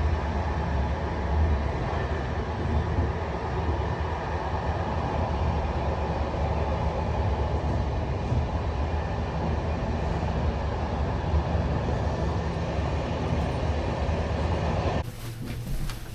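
Passenger train running, a steady low rumble of the carriage in motion that cuts off abruptly near the end.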